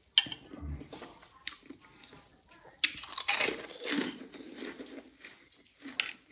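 Close chewing and crunching of fried kerupuk crackers eaten with spoonfuls of lontong in curry. The crunching is densest and loudest about three to four seconds in, with a few sharp clicks before and after.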